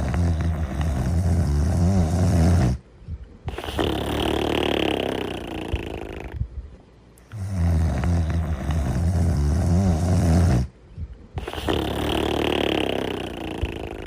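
Cartoon snoring: a loud, rattling snore on the in-breath, then a breathy, whistling out-breath, the cycle coming twice in a slow rhythm.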